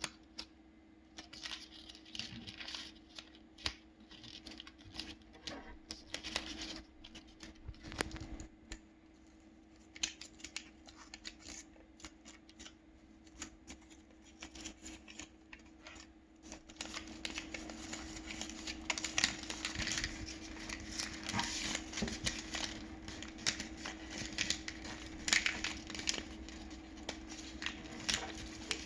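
Sheet of paper being folded and creased by hand: scattered crinkles, rustles and taps, getting busier about halfway through, over a steady low hum.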